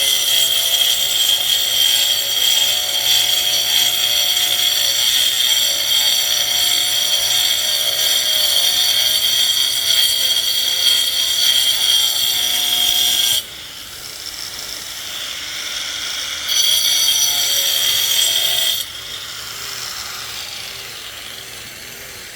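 Handheld electric power tool working wood with a steady high whine. It stops about 13 seconds in and runs again for about two seconds near 16 to 19 seconds in.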